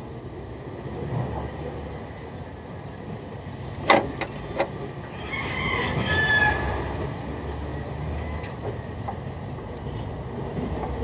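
A rooster crows once, for about two seconds, about five seconds in, over a steady low rumble. A sharp knock and two lighter clicks come just before it.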